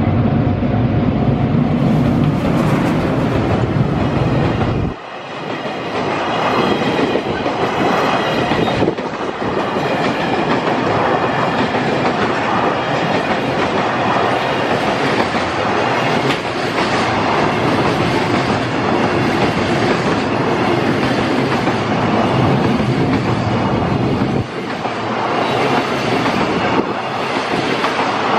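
Freight train running through a station, its wagons rolling over the rail joints with a steady clickety-clack and a heavy rumble. A deep, heavier rumble in the first five seconds changes abruptly to the lighter rhythm of the passing wagons, with another sudden change near the end.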